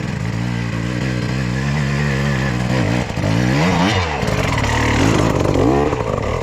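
Two-stroke dirt bike engine running under load and revving, its pitch rising and falling twice as the throttle is worked.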